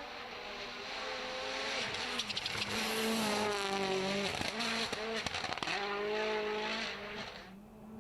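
Rally car's engine revving hard through the gears and growing louder, its pitch climbing and dropping at each shift, with short sharp crackles around the shifts. The sound falls away suddenly near the end.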